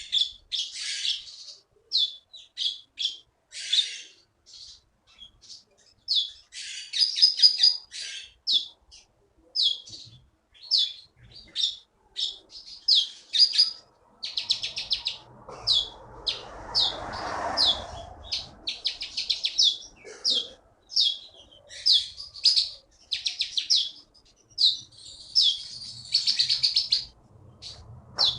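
A songbird known locally as konin singing vigorously in full song: a continuous string of short, sharp, high chirps broken by quick rattling trills. A soft rustle sits under the song around the middle.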